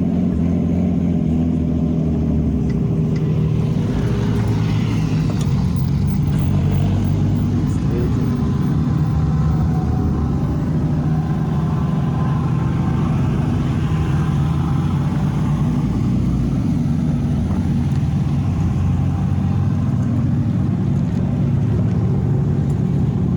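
Car engine running steadily, its pitch rising and falling a little as it speeds up and eases off.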